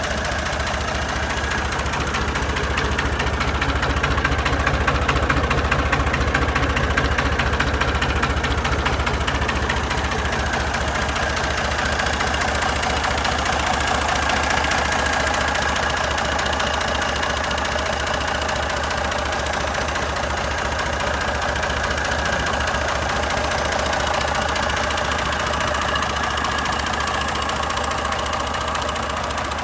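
Massey Ferguson 150 tractor engine running at a steady, even pace, swelling slightly about four to eight seconds in.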